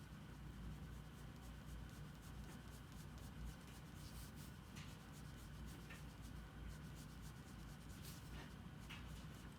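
Faint scratching of a drawing tool on paper, in short, irregular strokes, over a low steady hum.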